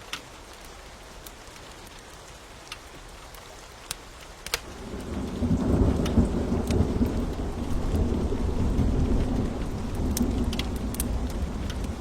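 Fire crackling with scattered sharp pops over a soft rain hiss. About four and a half seconds in, a low roll of thunder swells and keeps rumbling.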